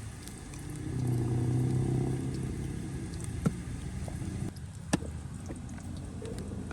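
A motor vehicle's engine running, swelling about a second in and then slowly fading, with two sharp clicks in the middle.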